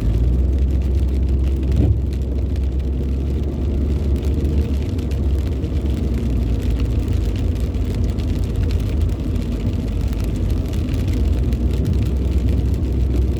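Steady road noise inside a moving car's cabin: a low engine and tyre rumble, with one light knock about two seconds in.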